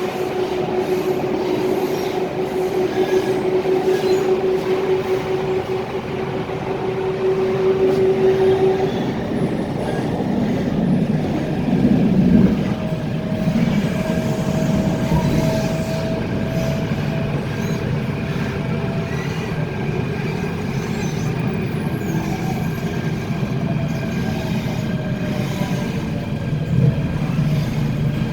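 MTR Tung Chung Line K-Train, a Hyundai Rotem electric multiple unit, running and slowing into its terminus: a steady rumble of the train with whining tones that hold, fade and shift in pitch, with some wheel squeal.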